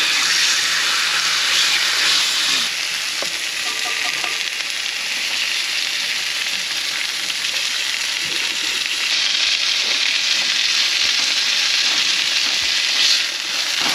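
Chicken breasts frying in a pan, a steady sizzle that eases off for a few seconds and then grows louder again about nine seconds in.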